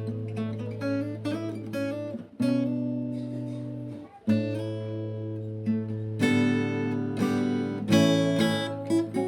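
Background music: acoustic guitar plucking and strumming notes over a steady bass.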